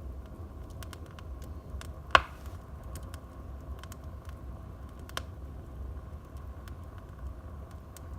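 Wood fire burning in a fireplace, crackling with scattered small pops over a low steady rumble of the flames. One loud, sharp pop about two seconds in and another clear pop about five seconds in.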